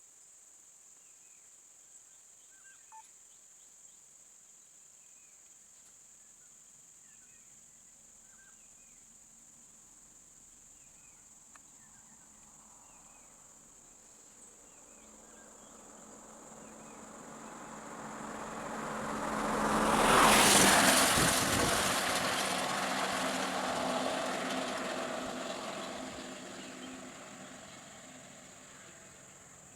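A motor vehicle approaches, passes close by about twenty seconds in, and fades away. Behind it is a steady high insect drone with a few faint chirps.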